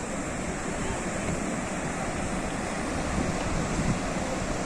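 Sea waves breaking and washing on the shore, a steady rush of surf.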